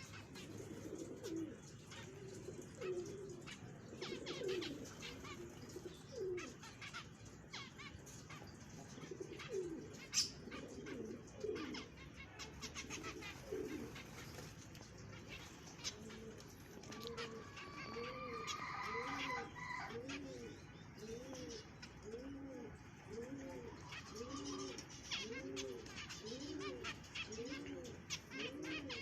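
Aviary birds cooing: irregular low calls at first, then from about halfway a steady run of low coos about one a second. Sharp clicks are scattered throughout, and there is brief higher chirping about two-thirds of the way in.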